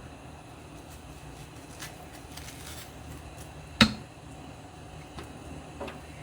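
Quiet kitchen with a low steady background and faint handling sounds, broken by one sharp knock of a utensil a little past halfway.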